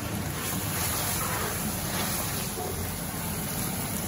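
Beef and tomatoes frying in a karahi, a flat spatula stirring and scraping through the meat, over a steady low rushing noise.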